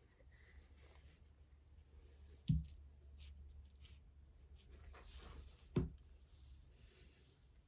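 Quiet handling of paint cups on a work table: faint clicks and taps, with two dull knocks about three seconds apart.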